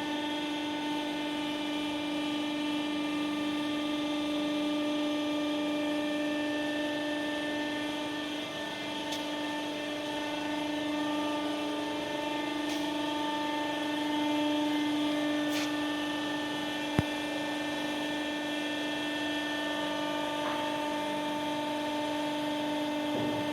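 Hydraulic power unit of a horizontal baling press running, a steady pitched hum. A single sharp click sounds about two-thirds of the way through.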